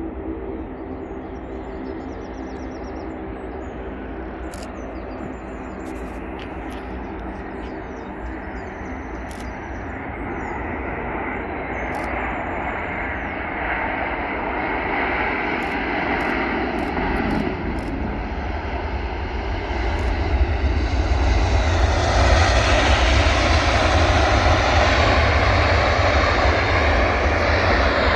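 Airbus A350-900 airliner's Rolls-Royce Trent XWB jet engines on a landing approach, a roar that grows steadily louder and is at its loudest for the last third.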